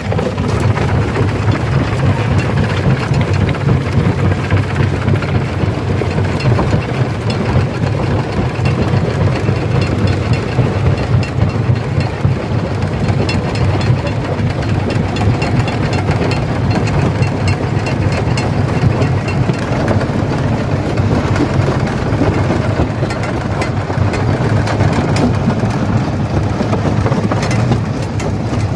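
Stone crusher running under load and crushing rock: a steady low machine drone with dense, continuous clattering and grinding of stone.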